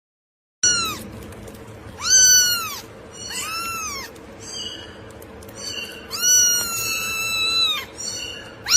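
Cat meowing repeatedly in high-pitched, arching calls, starting about half a second in: several short meows and one drawn-out meow of about two seconds.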